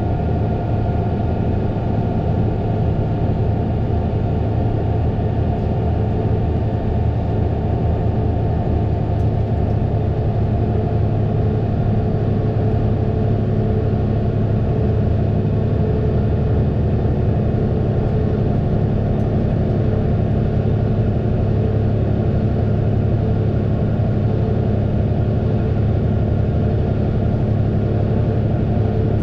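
Fendt 936 Vario tractor's diesel engine running steadily at an even pitch and level.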